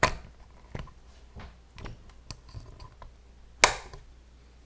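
Handling noises from an airsoft rifle and its mounted cameras being moved about: a run of irregular knocks and clicks, with a sharp knock at the start and another, the loudest, about a second before the end.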